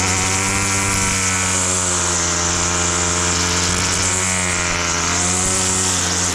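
Lawn mower motor running steadily with a constant low hum, its higher overtones sagging and rising again in pitch through the middle.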